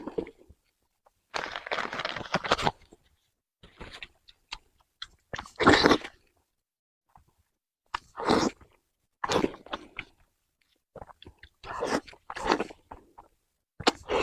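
A person chewing and biting braised pork close to the microphone. The bites and chews come in irregular bursts with short silences between them.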